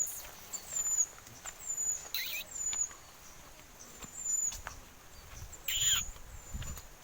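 Pied bushchat calling: short, very high chirps repeated about once a second, with two louder calls that slide downward in pitch, one about two seconds in and one near six seconds.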